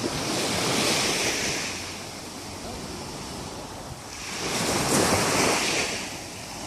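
Sea surf: two waves breaking and washing in, one right at the start and another about four seconds later, each swelling and fading.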